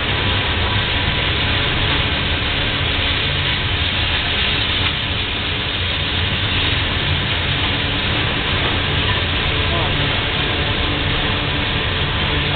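Freight train of tank cars rolling slowly past: a steady rumble of steel wheels on the rails.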